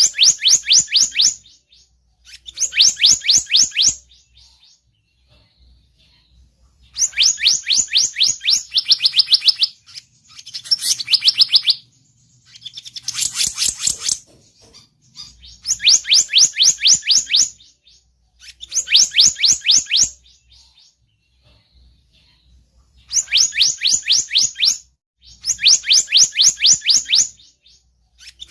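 Bird-lure recording of the selendang biru's call: rapid trills of sharp, high chirping notes, each lasting one to two seconds and repeated every few seconds. In the middle stretch two trills overlap, one slightly lower in pitch.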